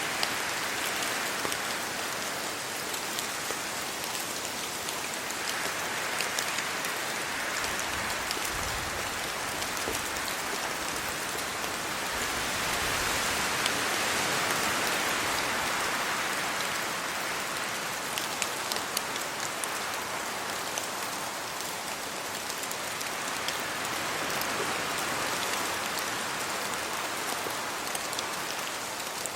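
Steady rain falling on trees and leaves, with scattered individual drops ticking close by. The hiss swells and eases in slow waves every several seconds as wind gusts through the leaves.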